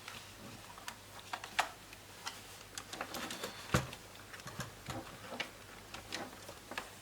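Scattered small clicks and light taps of laptop parts and cables being handled during disassembly, irregular and faint, with one louder knock about four seconds in.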